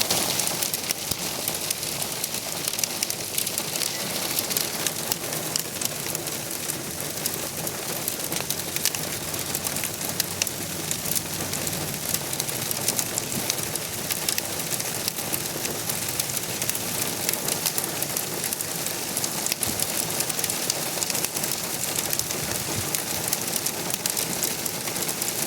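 Hail and rain pelting down in a dense, steady clatter of countless small impacts.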